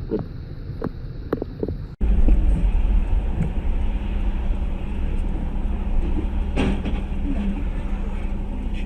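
Vehicle on the road: a low, steady rumble of engine and tyres. About two seconds in, the sound changes abruptly from a rumble broken by short knocks to an even, continuous rumble.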